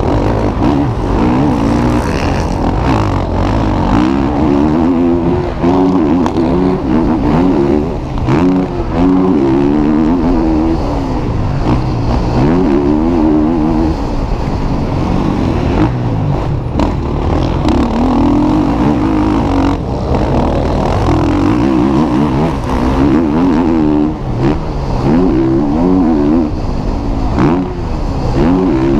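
Several motocross bikes running on the track, their engines revving up and down in pitch throughout.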